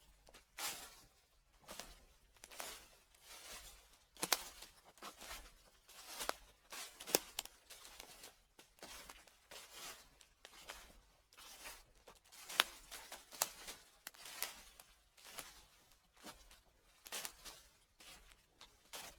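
Footsteps crunching through dry fallen leaves, a crisp rustling crackle at a slow, steady walking pace of roughly one step a second.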